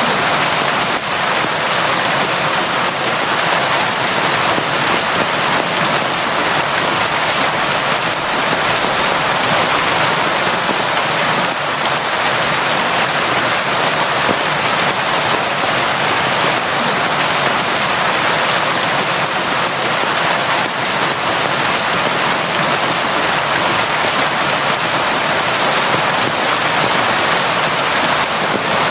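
Steady, constant rain falling and pattering on surfaces, an even hiss with no let-up.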